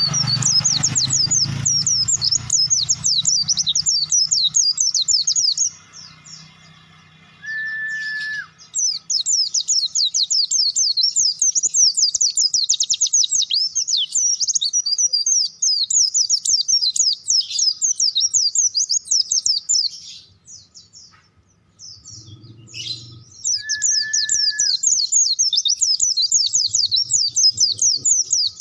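Pleci (white-eye) singing at full volume: a long, rapid, high twittering song in three long runs with two short pauses. A short steady whistle sounds twice, once in each pause.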